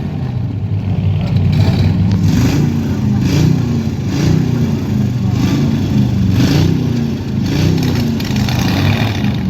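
Truck engine running hard under heavy throttle, its pitch rising and dipping again and again, about once a second.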